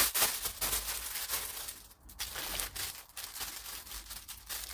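Plastic packaging crinkling and rustling in irregular bursts as hands handle and unwrap purchased items, quieting briefly about two seconds in.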